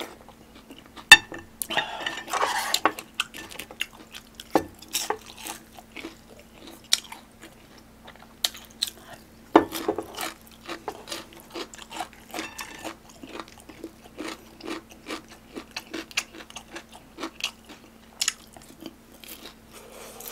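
Close-miked chewing of ramen and sweet-and-sour pork, with a steady chewing rhythm of about two bites a second in the middle, and sharp clicks of a spoon and chopsticks against ceramic bowls and plates, the loudest about a second in and near the middle.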